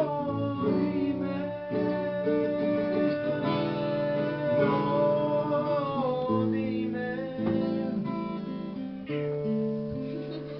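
Acoustic guitar strumming and picking, with a held melody line sliding between notes above it; the music tails off toward the end.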